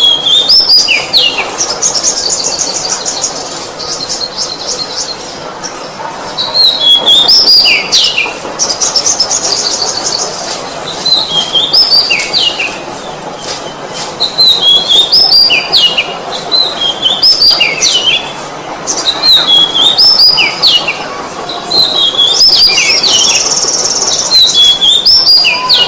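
Oriental magpie-robin (kacer) singing continuously: repeated phrases of sliding, dropping whistles, broken now and then by fast high trills.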